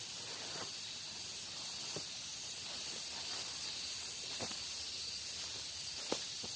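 Rainforest ambience: a steady, high-pitched buzz of insects, with three sharp taps spread through it.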